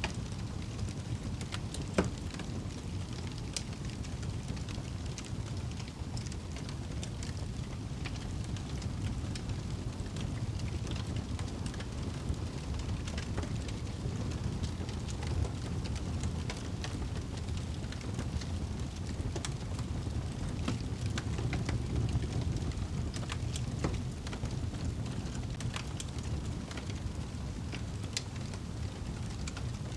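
Fireplace fire crackling, with scattered sharp pops over a steady low rumble; one louder pop about two seconds in.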